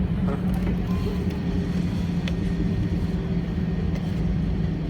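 Steady low drone inside an Airbus A320 cabin on the ground before takeoff: a constant hum with an even pitch over a low rumble.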